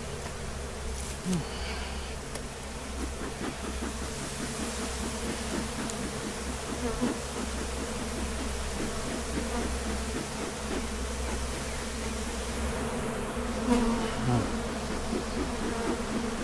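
Honeybee colony buzzing steadily around an opened hive, with now and then a single bee passing close by in a short gliding tone. The bees are stirred up and defensive after a frame was lifted from the bottom box.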